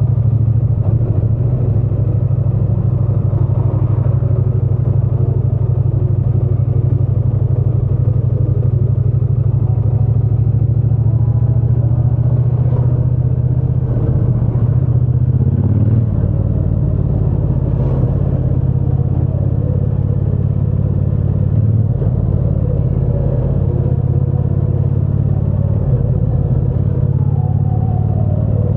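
Triumph Bonneville T120 parallel-twin engine and exhaust running steadily under way, a deep even drone. About halfway through the sound drops slightly in level and changes character.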